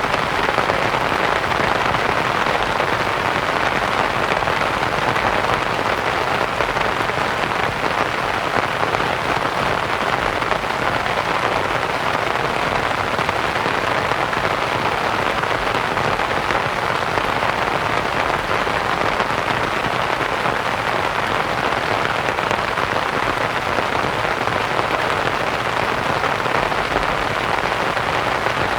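Steady rain on a canvas tent, mixed with white noise into an even, continuous hiss.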